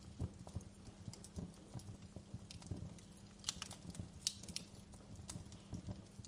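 Wood fire crackling in a fireplace: irregular small pops and snaps, with a few sharper pops near the middle.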